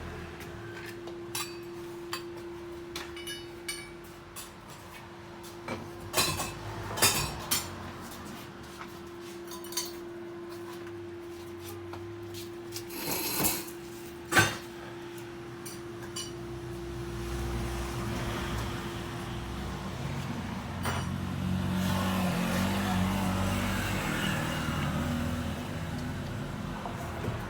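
Scattered metal clinks and knocks, with a cluster of sharp ones about six to eight seconds in and again around thirteen to fourteen seconds, over a steady hum. A low rumble builds through the second half.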